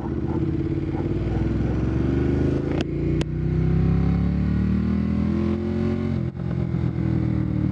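Ducati Monster 1200's L-twin engine with an Austin Racing aftermarket exhaust accelerating. Its pitch rises through the gears, with short dips at the shifts. Two sharp clicks sound close together about three seconds in.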